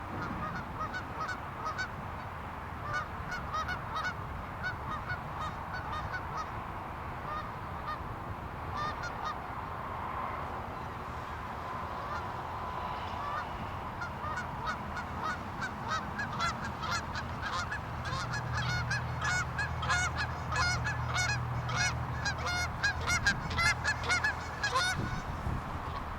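A flock of Canada geese honking: many short, repeated honks that come thicker and louder in the second half.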